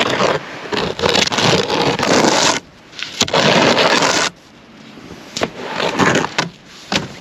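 Scraping in two long bursts, the second a little over a second long, followed by a few shorter knocks and scrapes.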